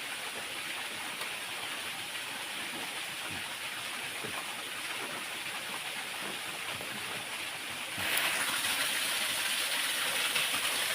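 Steady rush of flowing water from a nearby waterfall or stream, turning abruptly louder and brighter about eight seconds in.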